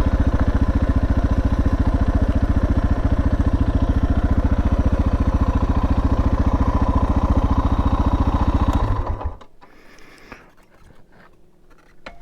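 Suzuki DR650's single-cylinder engine idling with an even, fast thumping beat, then shut off abruptly about nine seconds in; a few small clicks follow in the quiet.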